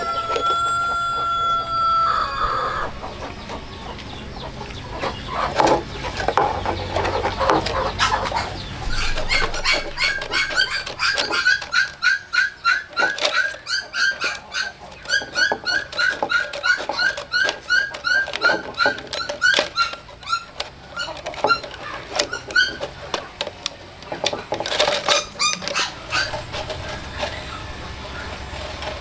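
An animal's call held for about two seconds, then a long run of short rising calls repeated about three times a second, with scattered knocks and clatter.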